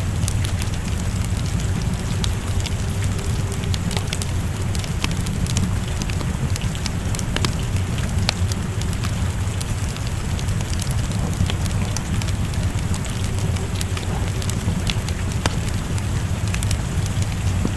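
Wood fire crackling in a fireplace, with many small sharp pops, over steady rain and a low rumble.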